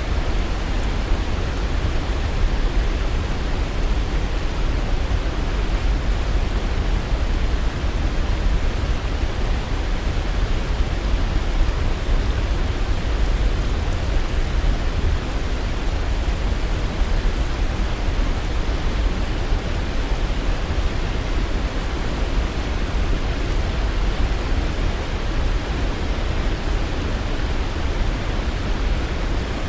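Waterfall: falling water making a steady, even rushing noise, heaviest in the low end, with no change over time.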